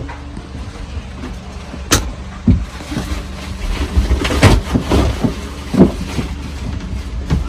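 Knocks and clatters over a steady low rumble, busiest in the middle.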